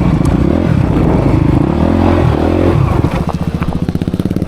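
Dirt bike engine revving under changing throttle, its pitch rising and falling, then settling about three seconds in to a lower, even rapid chugging.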